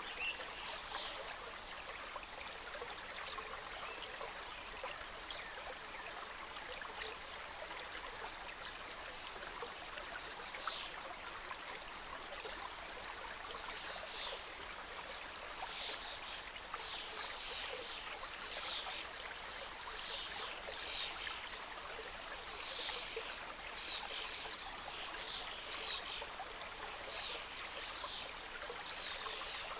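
Small mountain stream running over rocks, a steady rush of water. Birds call above it in short, high, falling notes, coming more often in the second half.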